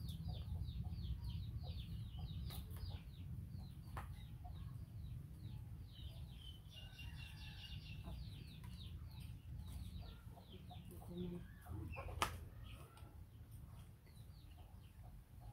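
Birds peeping: many short, high, falling chirps a second, over a low steady hum, with one sharp click about twelve seconds in.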